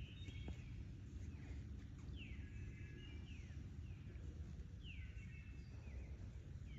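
A songbird singing the same short phrase over and over, about every three seconds: a falling slurred note followed by a quick run of higher notes. A steady low rumble underneath.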